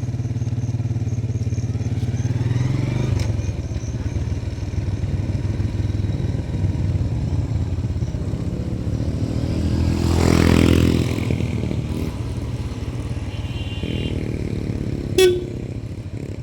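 Motorcycle engine running while riding: its pitch climbs for the first few seconds and then drops, as on a gear change. A louder swell comes about two-thirds of the way in, and there is a short, sharp sound near the end.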